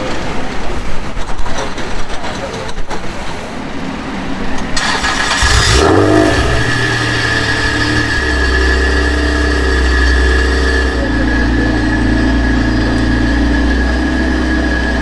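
A car engine starts about five seconds in, catching with a brief rise in pitch, then settles into a steady idle.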